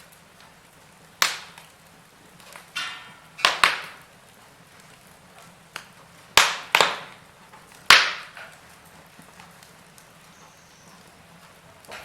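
Wood fire in a fireplace crackling: about half a dozen sharp pops and snaps, each dying away quickly, over a faint steady hiss. The loudest come about a second in and again between six and eight seconds in.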